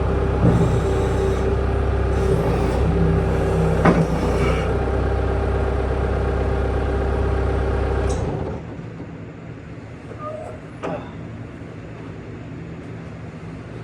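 Skid-steer loader engine running steadily, then shut off about eight seconds in, after which only a faint background with a few light clicks remains.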